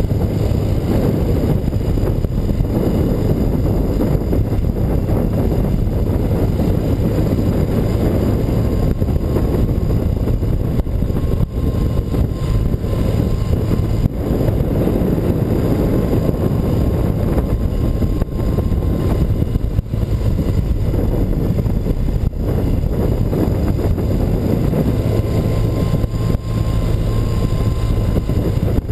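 BMW R100RS's air-cooled flat-twin (boxer) engine running steadily while the motorcycle is ridden, with wind buffeting the microphone.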